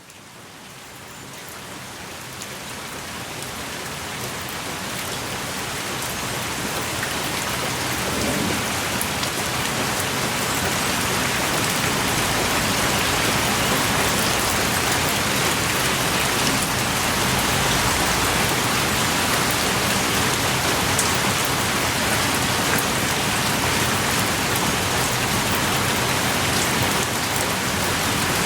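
Heavy rain falling, a steady hiss with scattered drop ticks, fading in over the first several seconds to a constant downpour.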